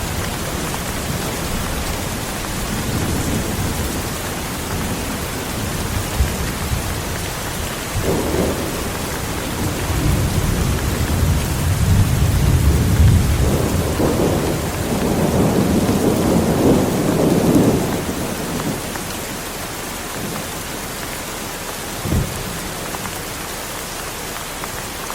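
Heavy rain falling steadily through a thunderstorm, with a long rolling thunder rumble that builds about a third of the way in, peaks in the middle and dies away, then a short sharp thunder crack near the end.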